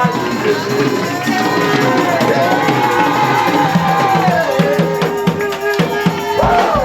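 Live church praise music with drums and percussion, and the voices of a worshipping congregation over it.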